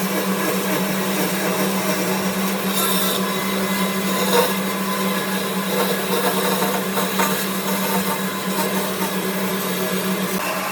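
An electric power tool's motor running steadily with a constant hum, with brief louder moments as it works the wood about three and four seconds in.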